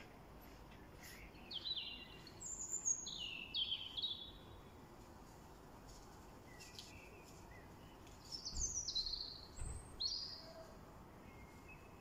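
A bird calling from a tree: two bursts of short, high-pitched notes that each fall in pitch, the first a couple of seconds in and the second about two thirds of the way through.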